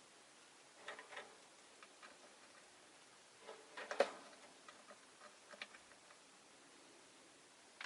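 Rosy-faced lovebirds in their cage making scattered small clicks and taps, a pair about a second in and the loudest knock about four seconds in.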